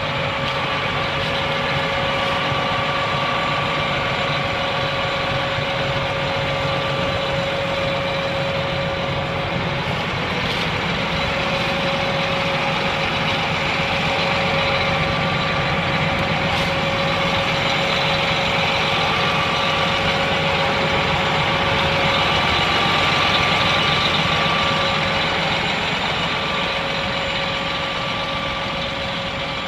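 John Deere 8235R tractor's six-cylinder diesel engine idling steadily, with a steady whine over the engine note.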